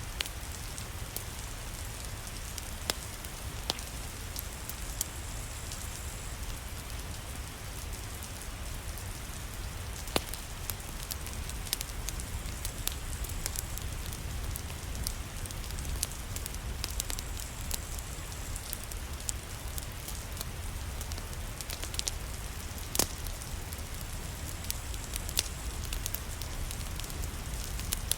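Steady rain with a low rumble under it, and a wood fire in a fireplace crackling, with scattered sharp pops.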